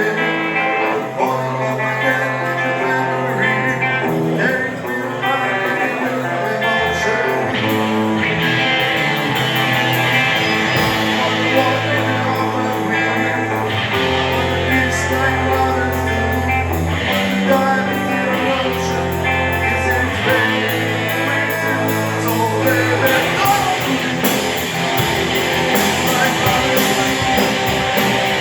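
Live rock band playing a song: electric guitar over low held bass notes, with singing.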